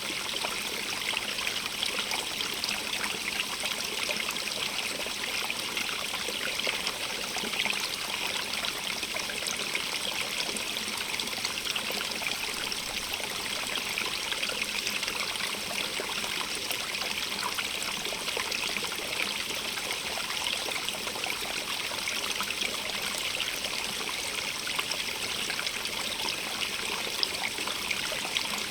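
Water running steadily over stones in a stream, an even rushing with fine splashing and trickling.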